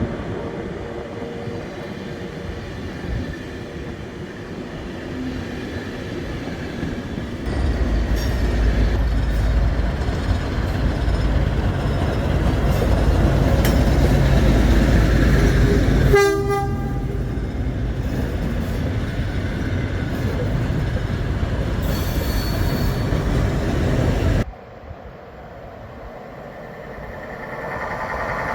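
A train passing close, a heavy rumble that swells about seven seconds in, with a short train horn blast about halfway through: a driver's greeting. The sound cuts off abruptly near the end.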